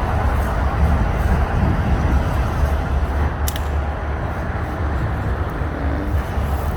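Steady low rumble of heavy traffic, with one brief sharp click about halfway through.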